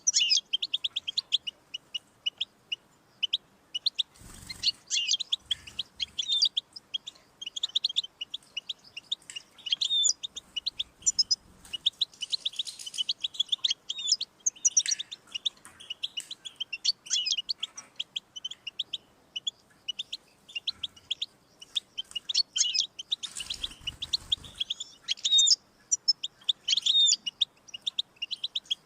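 European goldfinch singing: a continuous, rapid twittering song of quick chirps and liquid trills, high-pitched.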